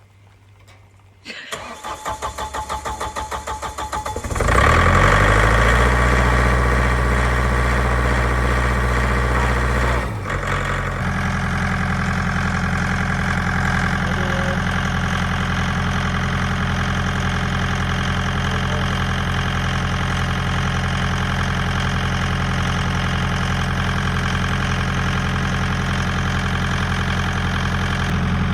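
Small tractor's engine turned over by its starter for about three seconds, with a pulsing beat, then catching about four seconds in. It runs fast at first and drops to a steady idle about ten seconds in.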